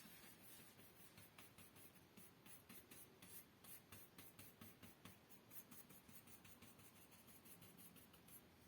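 Paintbrush stroking and dabbing paint onto the fireplace's grouted surface: faint, quick, soft scratchy strokes one after another.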